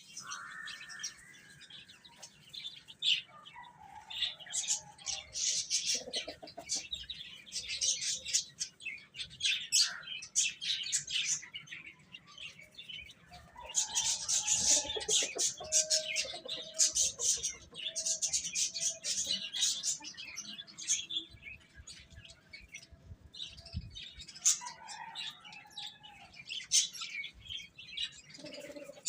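Baby chicks peeping: many quick, overlapping high-pitched chirps that come in bouts with short lulls between, with a few lower calls mixed in.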